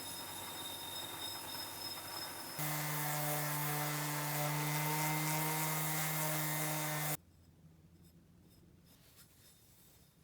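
A power tool at work in a restoration workshop: first a hissing, rubbing sound, then a louder steady hum at one fixed pitch that cuts off sharply about seven seconds in.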